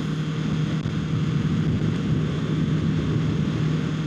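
2025 Kawasaki Ninja 650's parallel-twin engine running at a steady pitch while riding, with a steady rush of noise over it.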